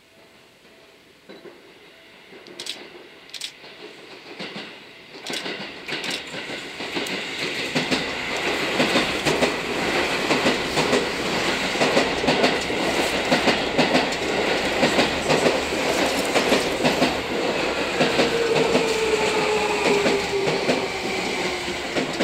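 Seibu 20000 series electric train approaching and passing close by, getting louder over the first several seconds. Its wheels click and clatter over rail joints and points. Near the end a whine from the train falls steadily in pitch.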